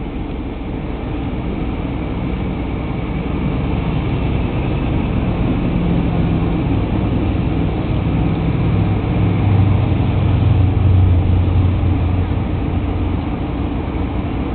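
Car engines running in slow traffic with road noise: a steady low rumble, with a deeper engine note that swells a little past the middle and eases off near the end.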